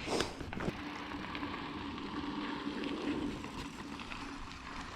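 Giant Fathom hardtail mountain bike rolling along a dirt trail: steady tyre and ride noise, with a couple of sharp knocks and rattles in the first second.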